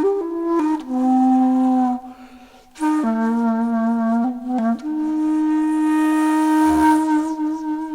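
Background music: a flute playing a slow melody of long held, slightly wavering notes, with a brief pause about two seconds in.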